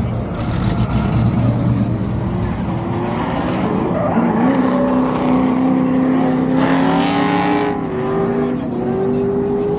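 Car engine held at high revs, its pitch climbing slowly, after a low engine rumble at the start; a louder, rougher burst comes about seven seconds in.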